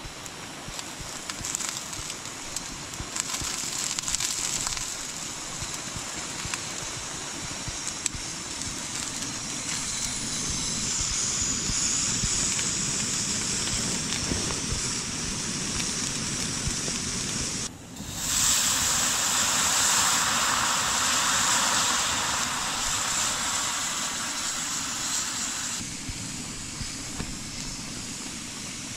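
Light rain pattering on a tent, mixed with the steady hiss of a canister gas camping stove burning under a frying pan. The sound drops out briefly about two-thirds of the way in and comes back with a louder hiss.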